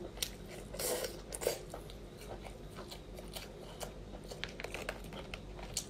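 Close-up chewing and biting on king crab meat and its cartilage: a scatter of small crunches and mouth clicks, busiest in the first second or two and thinning out after.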